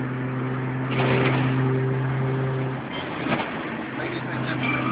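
Toyota Supra straight-six engine running steadily under way, heard from inside the cabin. About three seconds in, the steady engine note drops away for a second or two, then comes back near the end.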